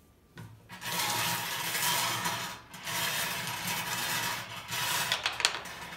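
Numbered draw balls rattling and rubbing together as they are mixed in their container, with a short break partway through and a few sharper clicks near the end.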